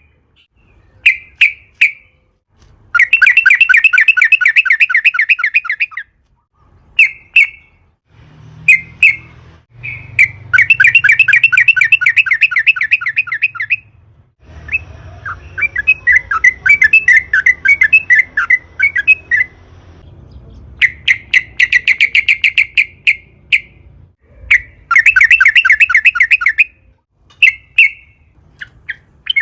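Yellow-vented bulbul (trucukan) singing: loud, fast rolling phrases of quickly repeated notes, each one to three seconds long, with short bursts of calls between them. Near the middle the notes turn into a looser jumble over a faint low hum.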